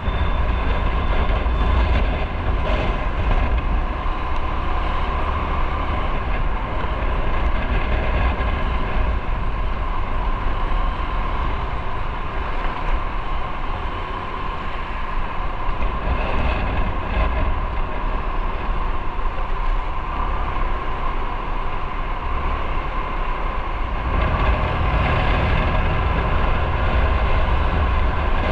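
Motorcycle running on the road with heavy wind rush on the mic and a steady engine drone. The deep wind rumble eases for a couple of seconds about three quarters of the way through, then comes back stronger.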